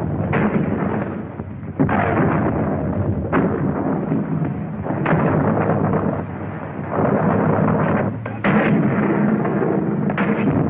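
Battle sound of artillery gunfire: about six sharp blasts, one every second or two, over a constant rumbling din, with the dull, narrow sound of a 1940s film soundtrack.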